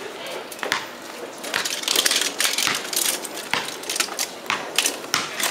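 Small toy trucks and cars clattering and clicking as they are handled and knocked together, in quick irregular clicks.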